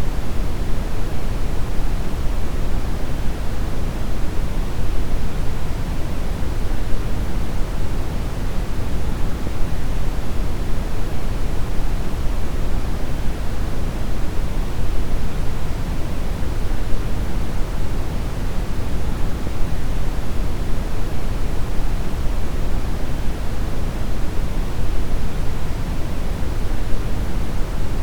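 Steady deep brown noise: an even, unbroken rushing hiss weighted heavily toward the low end, with no events or changes.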